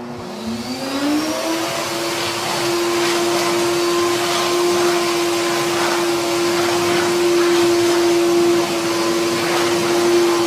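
LG vacuum cleaner switched on, its motor spinning up with a rising whine over the first second or two, then running at a steady pitch.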